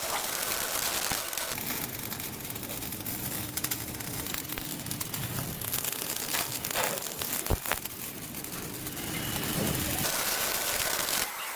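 GMAW (MAG) welding arc crackling steadily during a vertical-up capping pass, with one sharp click about seven and a half seconds in.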